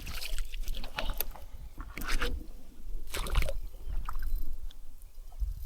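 Irregular rustling and knocking from handling gear and fish, over a steady low rumble.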